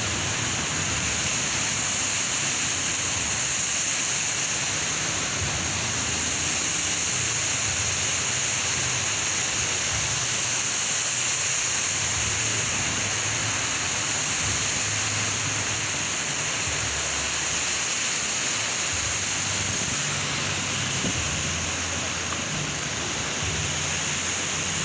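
Heavy rain pouring down in a steady, even hiss, with strong wind.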